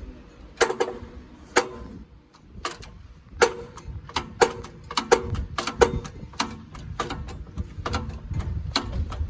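Hammer blows on steel during rear wheel bearing removal, each strike ringing briefly. Two blows in the first couple of seconds, then irregular strikes two or three a second from about three seconds in.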